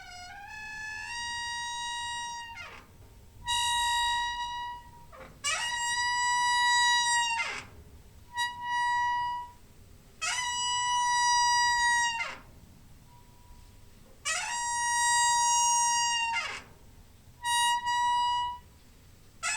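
Creaking door hinge squeaking over and over: about seven drawn-out, high-pitched squeaks, each lasting one to two seconds at a steady pitch and sliding down as it ends, with short pauses between.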